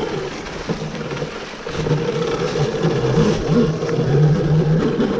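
Electric dirt bike's motor whining steadily, with a lower wavering hum that grows louder about two seconds in as the motor takes more load.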